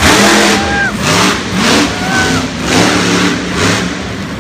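Monster truck engine revving hard in repeated surges, about one a second, during a freestyle run.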